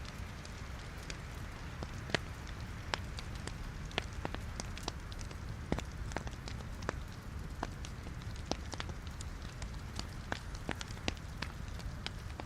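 Wood fire burning in a fireplace: a steady low rumble of the flames with irregular sharp crackles and pops from the logs, several a second.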